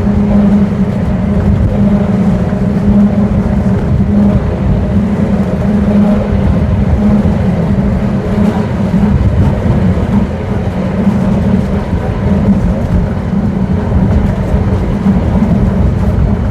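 Vintage tram running along the track: a steady hum over a dense, continuous low rumble.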